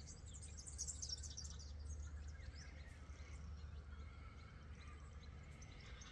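Outdoor bird chorus of small birds chirping and calling, with a dense flurry of high chirps in the first second or so, over a low steady rumble.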